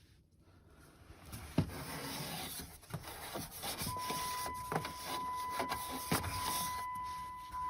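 Rubbing, rustling and scattered clicks of close handling noise. About four seconds in, a steady high electronic tone joins it and holds.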